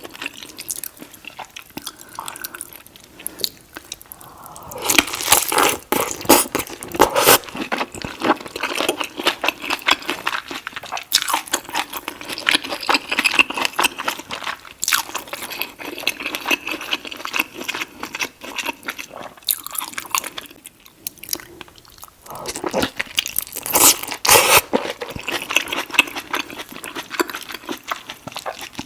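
A person biting and chewing saucy seafood boil, with wet, crunchy, smacking mouth sounds. There are louder clusters of crunching about five seconds in and again about three quarters of the way through.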